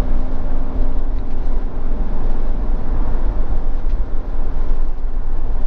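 Motorhome cruising on the motorway, heard from inside the cab: a steady low rumble of engine and road noise.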